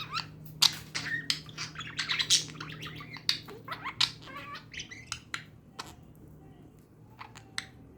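Budgerigars chirping in quick, sharp bursts, busiest in the first half and thinning to a few scattered chirps near the end.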